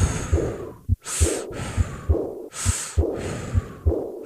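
Heart sounds through a stethoscope, regular low thuds in pairs, with breath sounds swelling and fading about every second and a half that nearly cover a soft, high-pitched, blowing diastolic murmur of aortic regurgitation.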